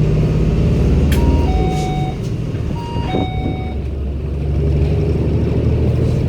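Cummins ISB Euro 6 diesel engine (280 PS) of a 2016 Daewoo New BS090 city bus running steadily. A two-note chime, high then low, sounds twice, about a second in and again about three seconds in.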